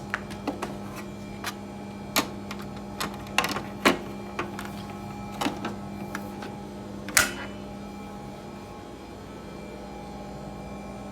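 Irregular sharp clicks and knocks, about a dozen, over a steady low hum; the clicks stop about seven seconds in, leaving only the hum.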